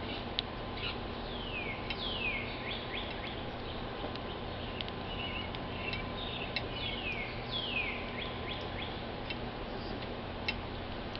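Songbirds calling: two runs of quick falling whistled notes, one about two seconds in and one about seven seconds in, among scattered short chirps, over a steady low background hum.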